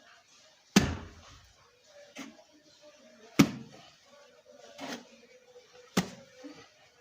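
Mortar thrown off a trowel onto a brick wall: three sharp slaps about two and a half seconds apart, with quieter knocks of the trowel between them.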